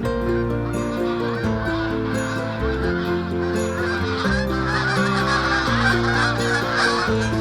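A flock of geese honking, a dense mass of overlapping calls that grows fuller over the last few seconds, over soft background music with slow sustained notes.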